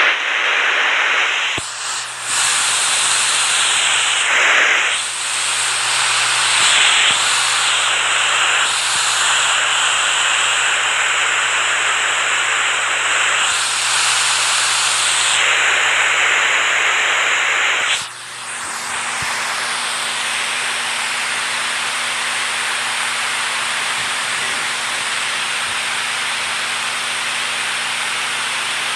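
Rushing water, a dense steady hiss. About eighteen seconds in it dips briefly and gives way to a slightly quieter, even rush.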